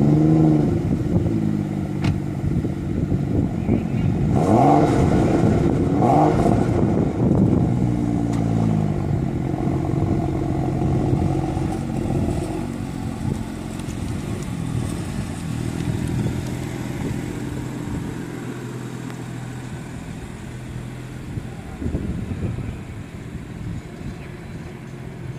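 BMW 335i's turbocharged straight-six heard at the exhaust, revved up and let fall back several times, then settling to a steady idle for the rest.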